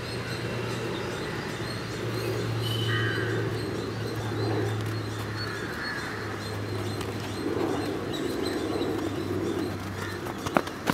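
Birds calling outdoors, low calls repeating every couple of seconds over a steady low hum, with a few sharp knocks near the end from footballs being kicked.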